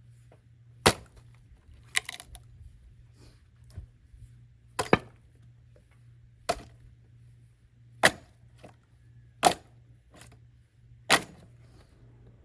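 Axe splitting firewood: a series of sharp wooden cracks, eight strikes at about one every second and a half.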